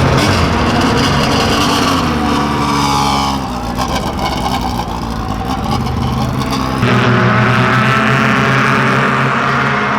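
Race car engines running at speed on the track, with one car sweeping past in the middle; the sound changes abruptly about seven seconds in.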